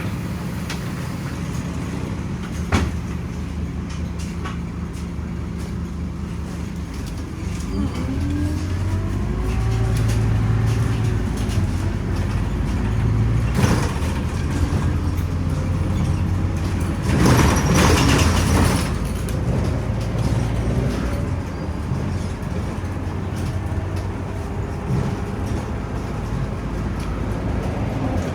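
Scania OmniCity city bus engine running, its pitch rising as the bus picks up speed about eight seconds in. Hisses of released air come about halfway through and again a few seconds later, lasting about two seconds.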